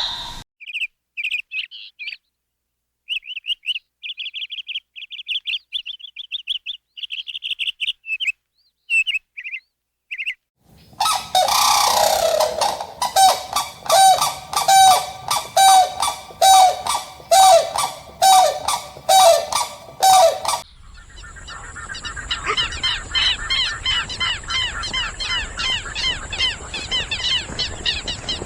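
Birds calling in three spells. First, a single bird chirps in short high bursts with silence between. From about ten seconds in, a louder, lower call repeats about one and a half times a second for some ten seconds. Then a dense chorus of many birds chirping over a steady hiss.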